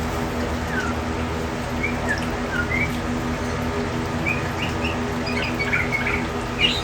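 Small birds chirping in scattered short call notes that come thicker toward the end, over a steady background hum and hiss.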